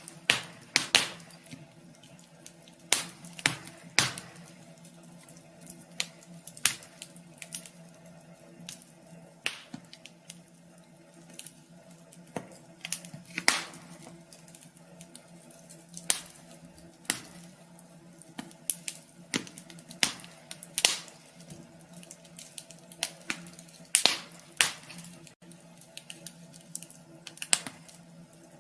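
Wood fire burning in a wood stove, crackling with irregular sharp pops and snaps, some in quick clusters, over a steady low hum.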